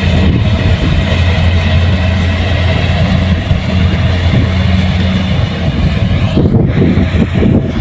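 Kubota rice combine harvester running, a loud steady diesel engine drone with machinery noise. About six seconds in, the high hiss falls away and an uneven low clatter takes over.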